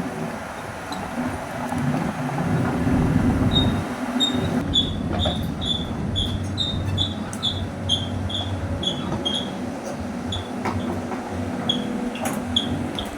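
Cat 320D excavator's diesel engine running under load, with clanks from the tracks and machine, and a high travel alarm beeping about two to three times a second from a few seconds in, briefly pausing and resuming near the end: the machine is tracking.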